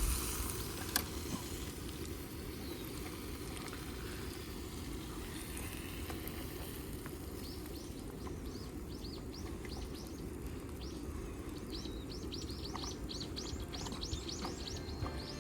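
Small birds chirping in quick runs of short high notes, starting about halfway in and growing busier near the end, over a steady low outdoor rumble.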